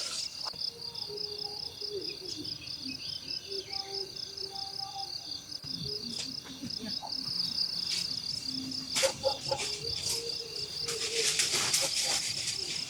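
Insects trilling steadily in a fast, even pulsing chorus. Brief crackling rustles come through about two-thirds of the way in and again near the end.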